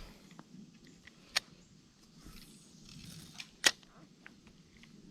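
A few sharp clicks over faint rustling, the two loudest about two seconds apart, with smaller ticks between.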